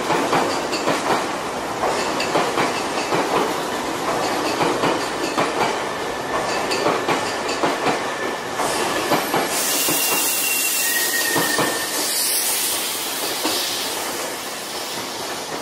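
Nankai 6000 series electric train pulling away over the station pointwork, its wheels clattering in a quick, steady run over the rail joints and switches. From about ten seconds in a high, steady wheel squeal and a hiss take over, and the sound fades as the train draws off.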